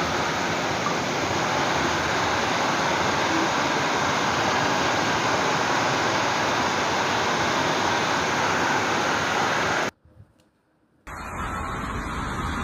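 Heavy rain pouring down as a dense, steady hiss. About ten seconds in it cuts off abruptly to a second of near silence, then a quieter rain or traffic noise comes back.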